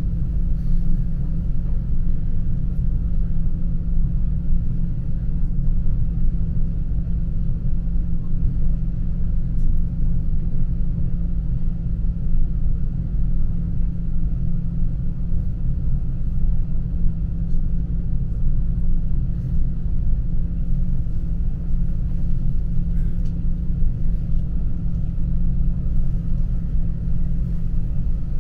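S-Bahn electric train running along the track, heard from inside: a steady low rumble that holds even, without braking or stops.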